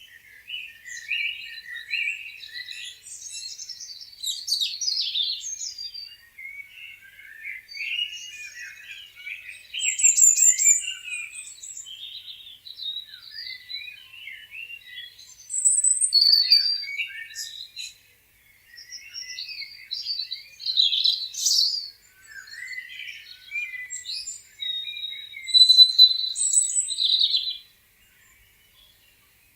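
Several songbirds chirping and singing over one another: a busy mix of short chirps, trills and whistled notes, with no low sounds beneath them.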